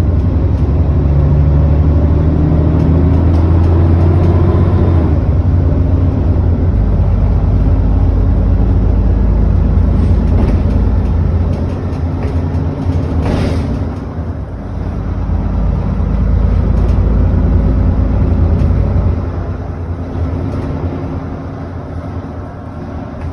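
Onboard sound of an ADL Enviro400 double-decker bus's diesel engine and drivetrain under way. The engine pitch climbs for about five seconds and then drops at a gear change. It eases off with a brief hiss about halfway, pulls again, then tails off as the bus slows near the end.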